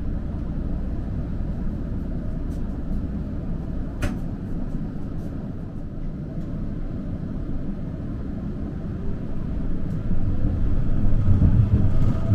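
Kagoshima City tram running, heard from inside the car: a steady low rumble of motor and wheels on rail, with a sharp click about four seconds in, and the rumble growing louder near the end.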